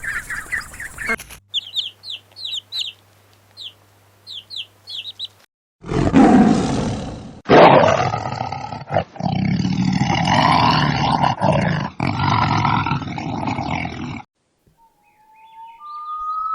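Short, repeated bird chirps, then a loud, rough animal roar lasting several seconds, broken by brief pauses.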